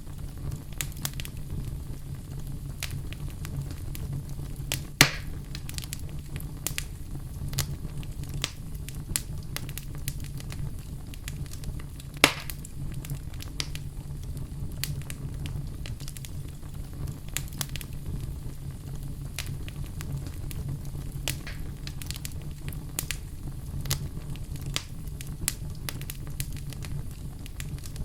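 Wood fire burning in a fireplace: a steady low rumble of flames with frequent small crackles, and two louder pops about five and twelve seconds in.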